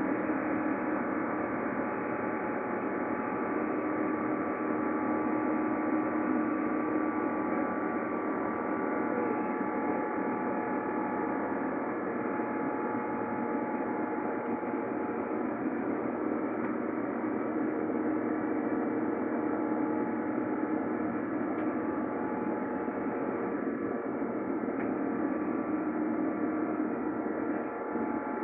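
Steady cabin drone inside an Airbus A350 after takeoff: Rolls-Royce Trent XWB engine and airflow noise, with several steady tones running through it.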